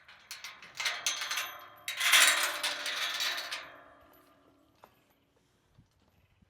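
Metal clattering and rattling with a ringing tail, loudest about two seconds in and dying away after about four seconds.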